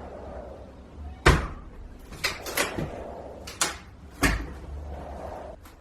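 A handful of sharp knocks and thuds at uneven intervals, the loudest about a second in, over a low steady background hum.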